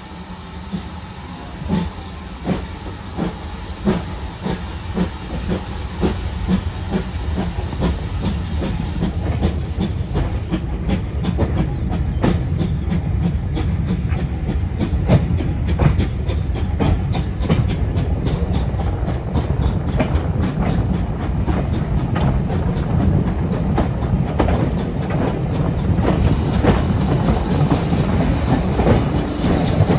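Steam-hauled heritage train on the move, its wheels clicking over the rail joints, the clicks coming faster and closer together as it gathers speed.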